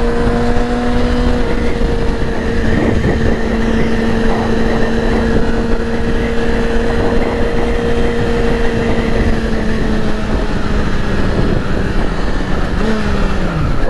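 Yamaha R6 sport bike's inline-four engine held at steady revs while riding, under heavy wind rush; near the end the revs fall away.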